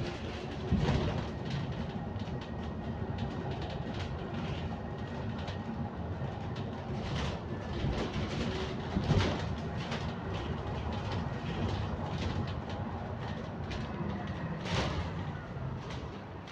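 Interior of a London bus on the move: steady engine and road rumble with frequent small rattles and knocks from the body and fittings, and a faint steady high whine.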